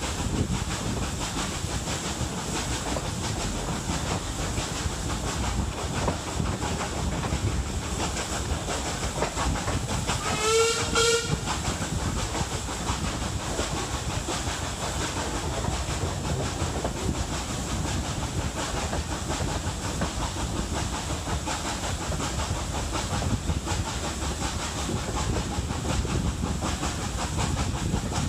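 Hunslet Austerity 0-6-0 saddle-tank steam locomotive working a train, its exhaust steam and wheel noise running steadily. About ten seconds in, the locomotive's steam whistle sounds once in a short blast of about a second.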